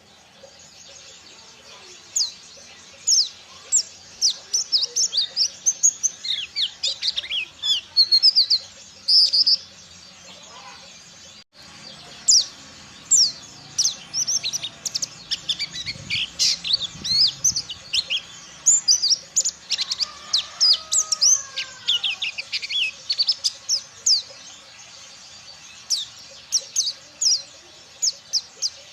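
Ciremai dakun pleci (white-eye) singing: rapid, high-pitched twittering chirps in bursts, pausing briefly about ten seconds in.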